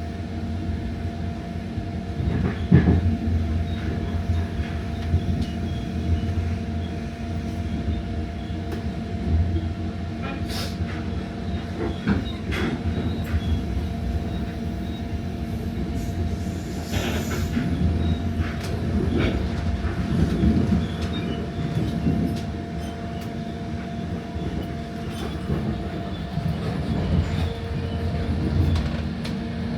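Electric regional train running along the track, heard from aboard: a steady rumble of wheels on rail under a steady hum, with scattered clicks and knocks from the rails.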